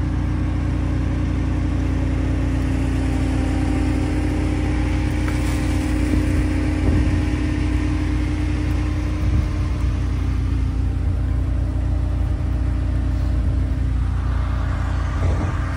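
An engine running steadily at a constant speed, a continuous low mechanical hum with no revving.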